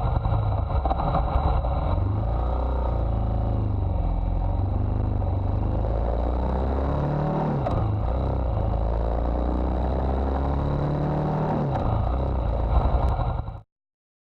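BMW R1200GSA's flat-twin boxer engine running while the motorcycle is ridden, its pitch shifting up and down several times as the revs change. The sound cuts off suddenly near the end.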